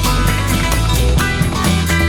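Instrumental passage of a 1971 psychedelic rock recording: electric guitar, bass and a drum kit playing with a steady beat, without vocals.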